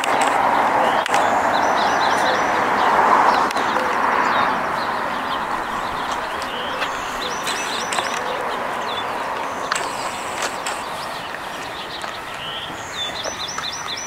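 Small birds chirping in quick, high series several times, over a rushing background noise that is loudest for the first few seconds and then fades.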